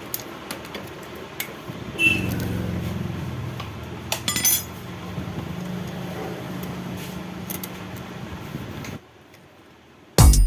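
Hero Glamour motorcycle started on its electric self-starter, with a sudden metallic clatter about two seconds in. The engine then runs steadily and stops about nine seconds in. The clatter is the 'kat-kat' self-start noise that the bike is being repaired for.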